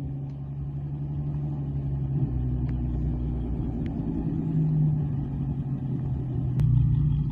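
Car engine running under load in a street drag race, a steady low drone whose pitch steps up about halfway through.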